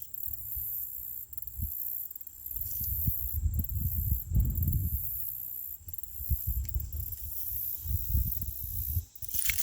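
Insects shrilling steadily in a high register, over irregular low rumbling on the microphone. A short, loud rustle comes near the end.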